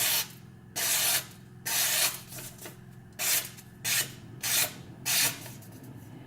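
A freshly sharpened knife edge slicing through paper as a sharpness test: six or seven short hissing cuts, roughly one a second, the later ones shorter.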